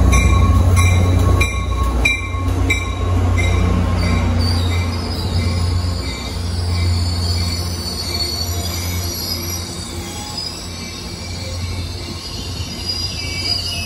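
Caltrain diesel locomotive entering the station: its bell rings about three strokes a second and stops nearly three seconds in, over the steady low hum of its engine. From about three seconds in, high-pitched train wheel squeal joins.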